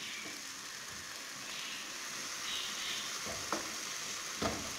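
Minced mutton sizzling steadily in a non-stick frying pan while a wooden spatula stirs it, with the spatula knocking and scraping against the pan a couple of times near the end.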